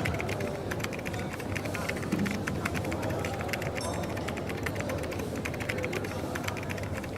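Fast, dense clicking of typing on a keyboard over the steady background hum of a coffee shop.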